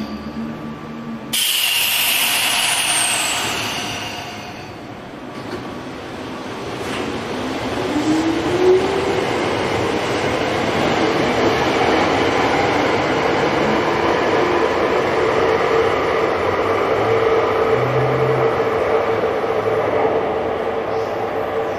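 Tokyo Metro 5000 series electric train running, with loud rolling noise and a motor whine. The whine rises about six seconds in, then holds at a steady pitch as the noise builds. The sound changes abruptly about a second in.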